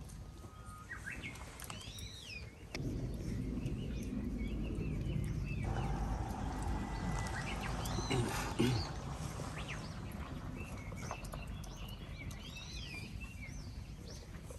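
A songbird singing, repeating a short warbling phrase about every five or six seconds. A low rumbling noise comes in suddenly about three seconds in and fades out by about nine seconds.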